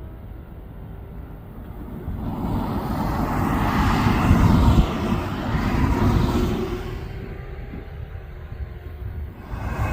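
Jet aircraft engine noise that swells about two seconds in, peaks, eases off, and builds again near the end, over a low rumble.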